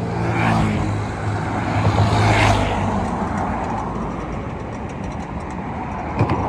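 Road traffic noise, with a nearby motor vehicle's engine humming steadily for about the first three seconds before fading into the general traffic. A short sharp knock comes near the end.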